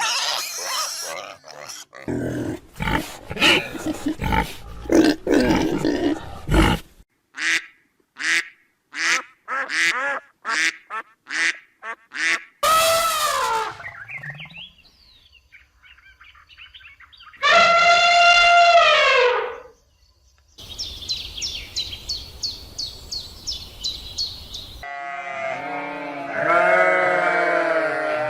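A string of different animal calls cut one after another: low rough sounds for a few seconds, then a run of short calls, two long pitched calls that drop in pitch at the end, a fast series of high repeated notes, and near the end quickly repeated pitched calls.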